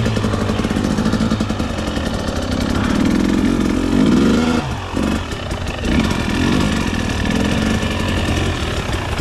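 300cc two-stroke dirt bike engine running under changing throttle on a trail ride, its pitch rising and falling, with a dip in revs about five seconds in.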